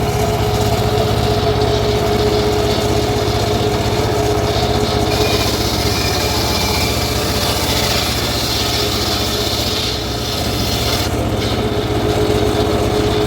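Homemade engine-driven circular sawmill running steadily, its blade cutting teak, with a harsher hiss of cutting from about four seconds in to about eleven seconds.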